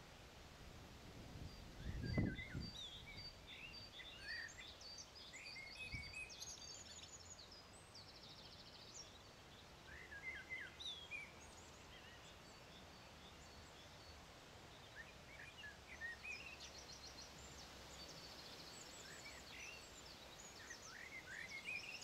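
Faint outdoor birdsong: many short chirps and a few quick trills from small birds, scattered all through. A soft low thump about two seconds in and a smaller one a few seconds later.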